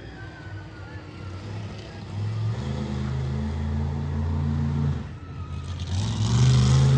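Monster truck engine revving in surges: it picks up about two seconds in, drops off briefly just before five seconds, then climbs back louder near the end.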